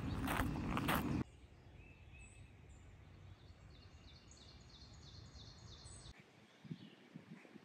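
Footsteps walking for about a second, then after a cut a small bird singing a quick run of short high chirps, about three a second, for several seconds. Another cut brings quieter outdoor ambience with a few faint low thuds.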